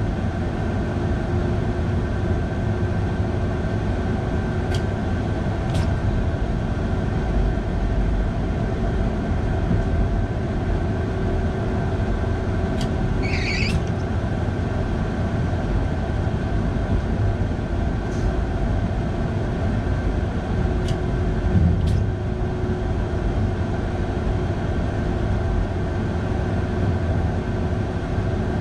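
Electric train climbing under way, heard from the driver's cab: a steady rumble of wheels on rail with a steady electric hum over it. A few faint clicks come and go, and there is one brief high squeal about halfway through.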